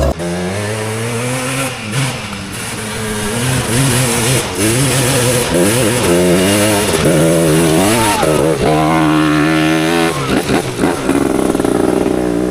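Two-stroke ATV engine being ridden hard, its pitch climbing and falling again and again as the throttle is worked and released, held high for a while near the end.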